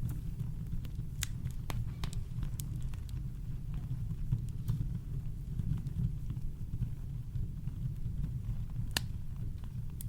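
Campfire crackling, with scattered sharp pops and one louder pop near the end, over a steady deep rumble of brown noise.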